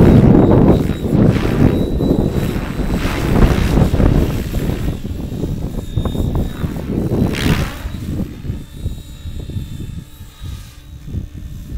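Align T-Rex 700E electric RC helicopter in flight, its rotor blades whooshing, with wind buffeting the microphone. The sound grows fainter over the last few seconds.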